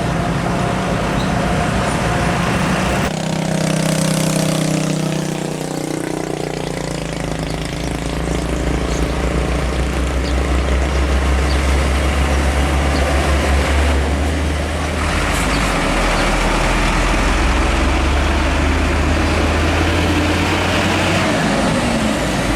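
Heavy diesel trucks driving past on a road. About four seconds in, an engine note drops in pitch, then settles into a deep, steady engine drone that shifts a couple of times as different trucks go by.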